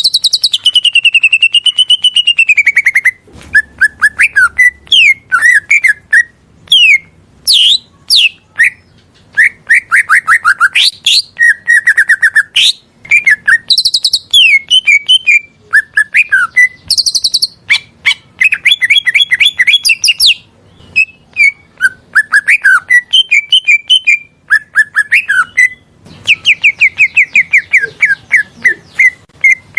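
A cucak ijo (green leafbird) singing a loud, varied song: an opening wavering whistle, then quick chirps, trills and fast runs of repeated notes with short pauses between phrases.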